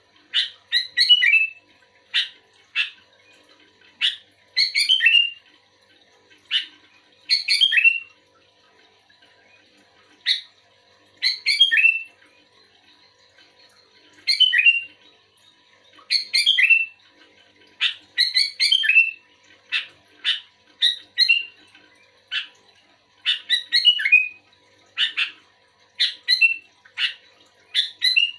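Sooty-headed bulbul (kutilang) singing actively: short, bubbly whistled phrases repeated every second or two.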